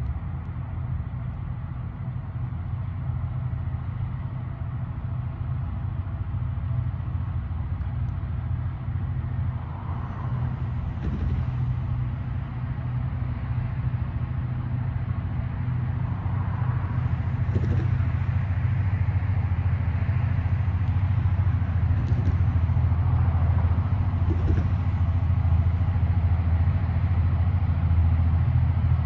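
Diesel locomotive of a slow-moving train drawing closer: a steady low engine rumble that grows gradually louder, with a few faint short higher-pitched sounds from about ten seconds in.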